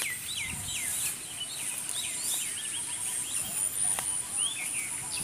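Birds chirping in many short, quick calls, with a thin steady high-pitched tone underneath.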